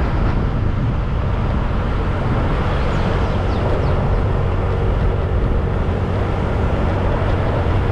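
Steady wind rush over an action camera's microphone with a motorbike engine running underneath, at a constant level, while riding along a road.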